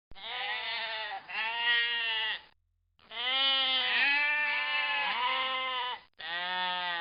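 An animal's drawn-out bleating calls, four in a row, each wavering up and down in pitch, the third one long.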